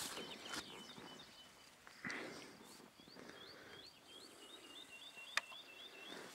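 A small songbird singing faintly: a string of quick upward-flicking chirps, then a run of short, evenly spaced notes. A brief rustle comes about two seconds in, and a single sharp click a little after five seconds.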